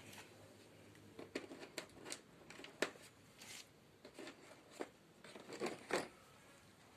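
Irregular clicks and light knocks from a washing machine's control panel being handled and fitted back in place during reassembly.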